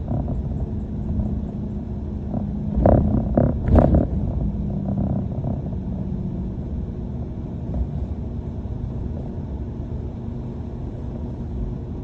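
A London bus heard from inside the cabin while under way: its engine and running gear keep up a steady low rumble with a constant hum.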